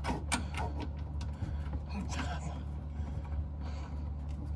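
Scattered light clicks and rubbing from hands and tools working a water supply-line fitting in the cramped space under a bathroom sink, over a steady low hum.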